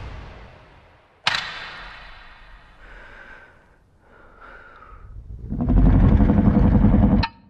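Trailer sound design: a sudden hit about a second in that fades away, faint sounds in the lull, then a loud low rumbling swell that cuts off abruptly near the end.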